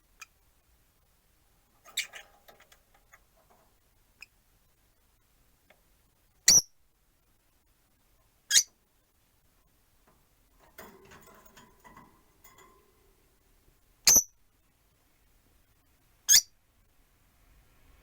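Rosy-faced lovebirds giving short, sharp, high-pitched chirps, four loud single calls a few seconds apart, with softer scratchy chatter in between.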